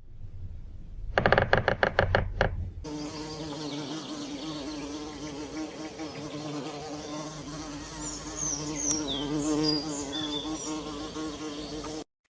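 A flying insect buzzing steadily with a humming pitch, beginning about three seconds in. Just before it comes a quick run of about eight loud pulses, and a few short high chirps are heard near the end.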